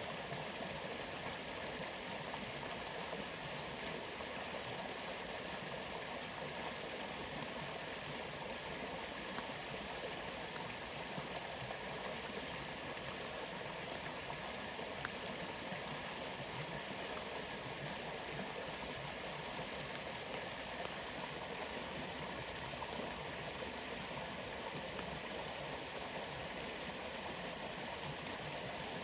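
Steady, even rush of water from a waterfall and rainforest rain, unchanging throughout.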